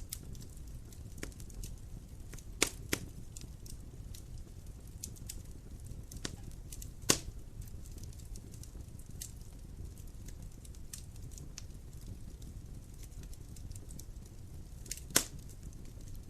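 Wood fire in a fireplace crackling, a steady low rumble scattered with small sharp snaps and three louder pops.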